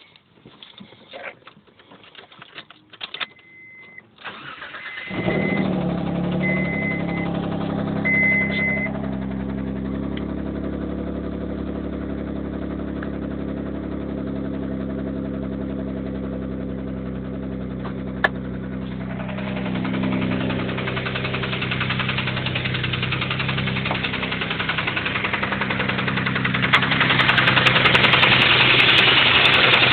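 Mitsubishi 3000GT VR-4's twin-turbo V6 starting about five seconds in, with a few short electronic beeps as it cranks, then idling and growing louder in the second half. The idle carries a knock that the owner takes for a spun rod bearing.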